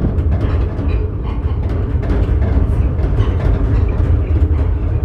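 Tourist ride train running, heard from on board: a steady low rumble with light rattling.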